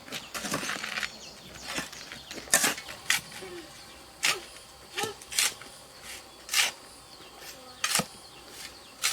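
A series of short, sharp knocks and scrapes at irregular spacing, about a dozen in all, over a faint steady outdoor background.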